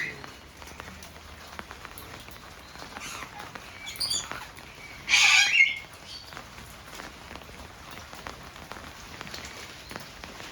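A parrot gives one loud call about five seconds in, after two shorter calls, over a steady background hiss.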